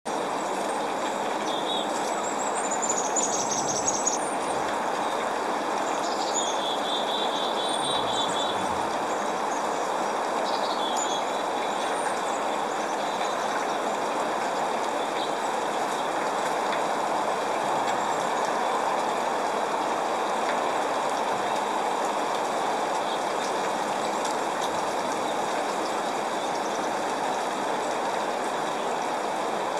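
Steady rain falling, with birds chirping and trilling over it during the first dozen seconds or so.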